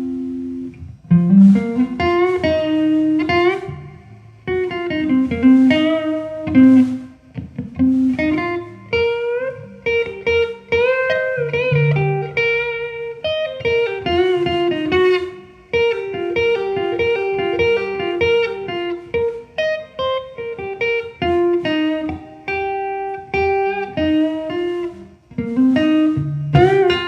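Guitar playing a melodic line of single plucked notes, with several bent notes that slide up in pitch, one about a second in.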